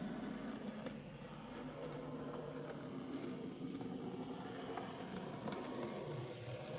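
Dapol N gauge Pannier tank model locomotive running, its small electric motor giving a steady buzzing whir.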